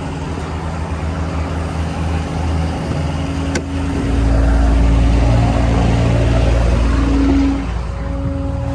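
Ford F550's 6.7 L Power Stroke V8 diesel running, growing louder and heavier about four seconds in as engine speed comes up, then easing back near the end.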